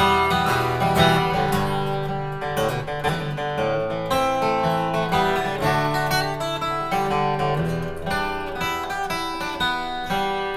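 Instrumental break of a live country-folk band: acoustic guitar strumming and picking, with the bass dropping out about four seconds in.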